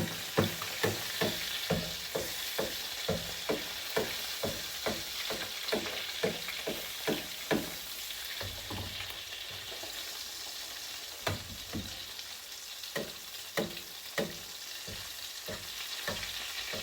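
Mackerel fillet frying in browning butter in a pan, a steady sizzle, while a spoon basts it with quick regular scrapes and taps against the pan, about two or three a second. The basting strokes stop about halfway through, leaving the sizzle with a few scattered taps.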